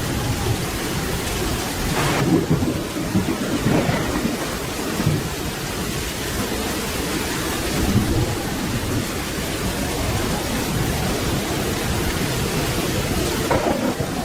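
Steady rain with thunder rumbling low beneath it, swelling several times.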